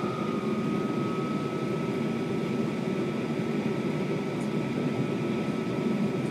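Steady rumble of a passenger train running at speed, heard inside the carriage, with a faint, thin, steady whine above it.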